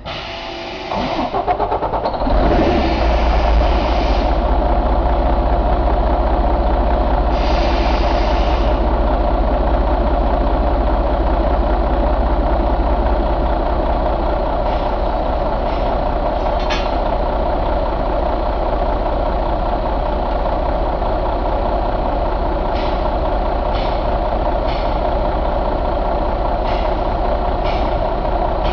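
Detroit DD13 inline-six diesel engine starting up and settling into a steady idle within the first couple of seconds. Several short hisses come in the first several seconds, and a few light clicks come later.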